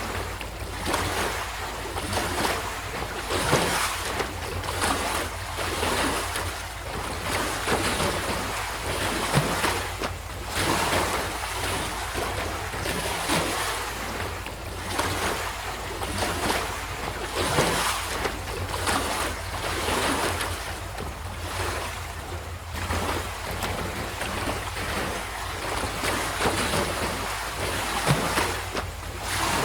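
Sea surf: waves breaking and washing up the shore, the hiss swelling and fading every second or two over a steady low rumble.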